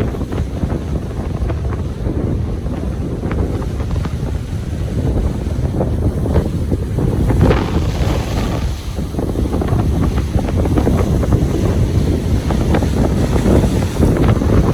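Ocean waves breaking and washing up a beach, with a heavy, continuous low rumble of wind buffeting the microphone. A wave surges up about seven seconds in.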